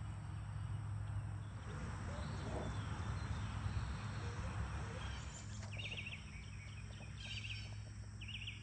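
A songbird sings three short bursts of quick, high chirps, starting about five and a half seconds in. A steady low hum runs underneath.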